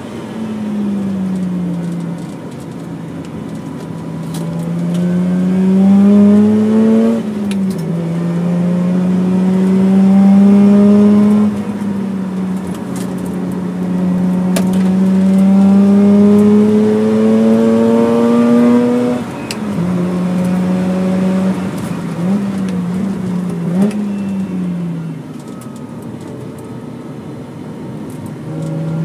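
Mazda RX-8's twin-rotor rotary engine heard from inside the cabin, pulling hard near its 7,000-rpm-plus top end. The note rises under acceleration and drops sharply at each gear change: an upshift from second to third near the start, then quick falls and rises about two-thirds through as it brakes and downshifts back to second.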